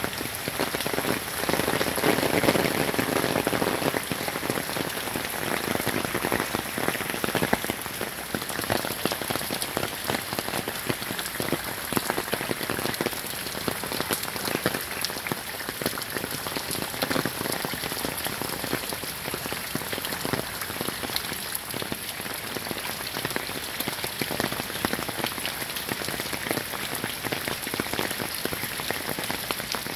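Heavy hurricane rain falling steadily on a waterlogged lawn with standing water, a dense hiss of countless drops, a little heavier for a few seconds near the start.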